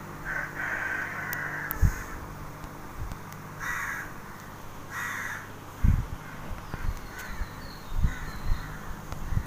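A bird cawing several times in the background, the first call the longest. A few dull low thumps fall among the calls, the loudest near the start and just past halfway, over a steady low hum.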